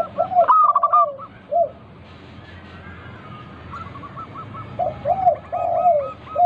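Zebra doves (perkutut) singing: short groups of low, arched coos, with fast runs of higher repeated notes over them.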